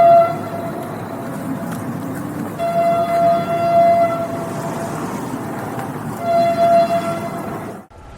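Train horn sounding in blasts over the steady noise of a moving train: the end of one blast right at the start, a longer blast about two and a half seconds in, and a shorter one near the end. The sound cuts off abruptly just before the end.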